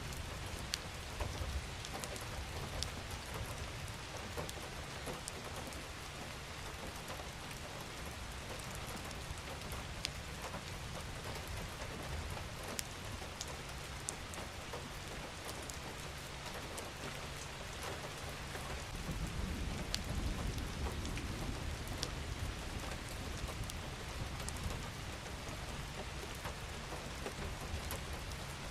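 Steady rain falling, with single drops ticking sharply through the hiss. A low rumble swells about two-thirds of the way through.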